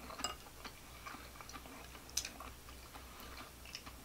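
A person chewing food close to the microphone: wet mouth clicks and smacks, with one sharper click about two seconds in.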